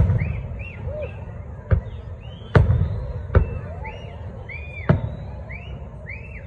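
Aerial firework shells bursting overhead, five sharp booms in about five seconds, the loudest about two and a half seconds in.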